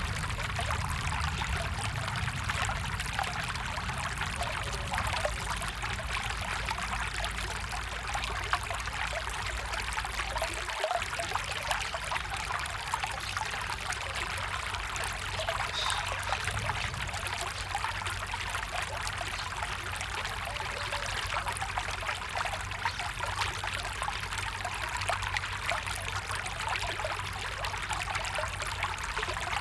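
Water of a stream or brook flowing, a steady running and trickling.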